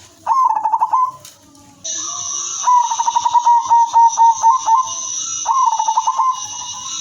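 Zebra dove (perkutut) cooing in rapid staccato trills: a short trill just after the start, a longer one of about two seconds in the middle, and another near the end. A steady high-pitched buzz starts about two seconds in and runs under the calls.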